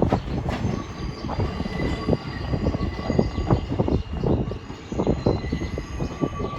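New York City subway train running, its wheels clattering in a dense, irregular run of knocks, with a faint steady whine above.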